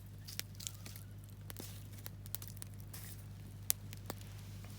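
Wood campfire crackling, with scattered sharp snaps and pops, one louder pop near the end.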